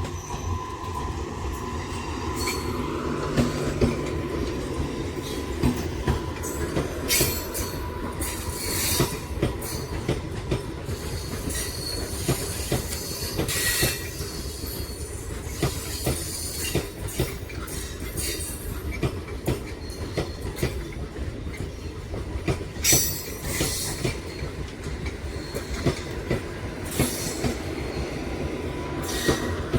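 Indian Railways train running past at speed: a steady wheel-on-rail rumble, with irregular sharp clacks from the rail joints and brief high wheel squeals.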